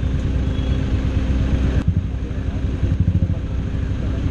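Supercar engine running at a steady idle, with no revving. The recording cuts abruptly about two seconds in.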